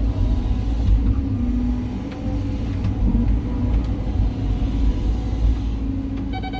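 Cat 323 hydraulic excavator's diesel engine running under load with a deep rumble, with a few light knocks as it works. Near the end a pulsing electronic beep starts.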